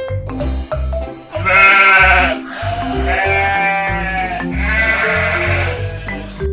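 An animal bleating three times, each call about a second long and arching up and down in pitch, over background music with a steady bass line.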